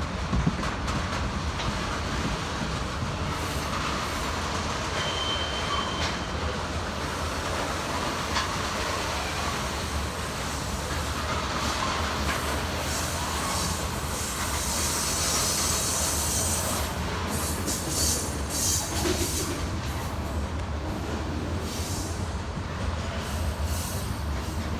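Freight train cars rolling past: a steady rumble of steel wheels on rail, with a short high wheel squeal about five seconds in and a run of sharp clicks and hissing from the wheels past the middle.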